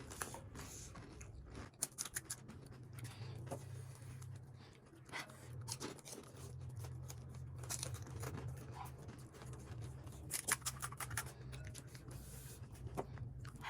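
Eating sounds of crisp pani puri shells: scattered crackles and small crunches as they are bitten and chewed, over a low steady hum.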